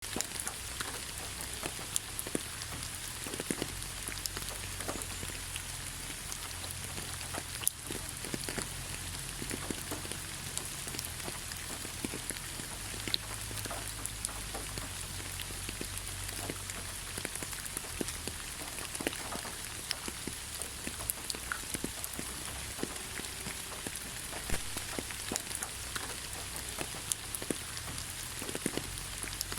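Steady rain falling on leaves: an even hiss with many scattered drops pattering irregularly.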